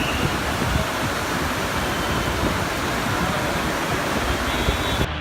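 Heavy monsoon rain, a steady dense hiss with a low rumble of wind buffeting the microphone. Near the end the high part of the hiss cuts off abruptly.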